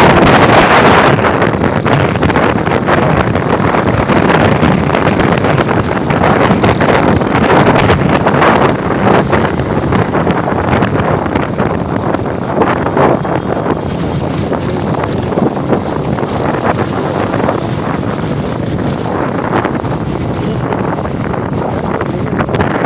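Wind rushing over the microphone of a moving motorcycle, a loud, steady rush with road and traffic noise mixed in, easing a little in the second half.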